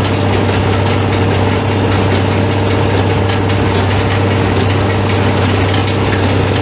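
Farm tractor engine running steadily with a constant low drone, heard close up.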